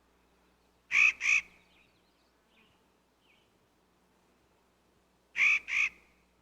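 Clark's nutcracker giving its harsh, grating call twice, each time as two rasping notes in quick succession, about a second in and again near the end.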